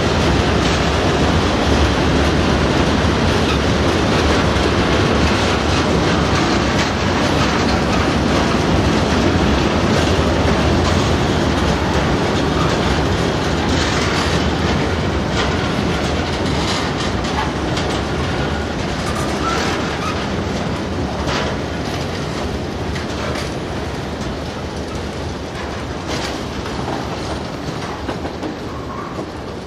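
A long rake of Lafarge bogie aggregate hopper wagons rolling past at speed: a steady rumble of wheels on rail with repeated clickety-clack as the bogies cross rail joints. The rumble slowly fades over the second half as the last wagons go by.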